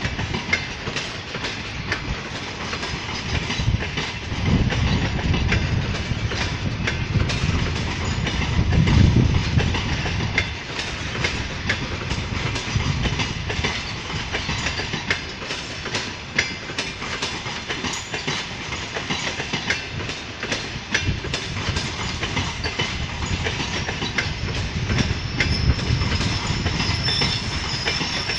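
Double-decker passenger train moving on the rails: a steady low rumble with many sharp wheel clicks over rail joints.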